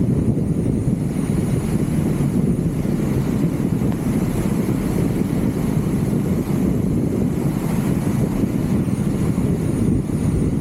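Steady low rumble of wind and road noise on a vehicle's roof-mounted camera microphone, with a faint, thin high whine that wavers slightly.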